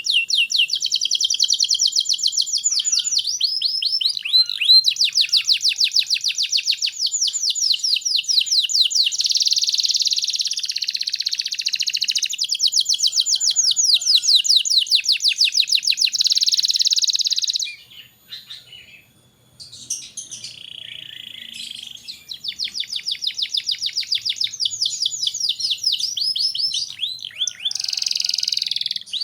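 Domestic canary singing in long, fast rolling trills of rapidly repeated high notes, with a pause of about two seconds a little past the middle before the song picks up again.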